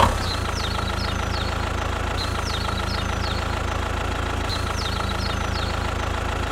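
An engine idling steadily with a rapid, even chugging beat. Faint high chirps, like birds, come in small clusters about every two seconds.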